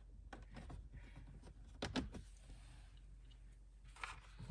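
Faint clicks and light knocks of plastic trim and tools being handled, with a pair of sharper clicks about two seconds in and a short rustle near the end.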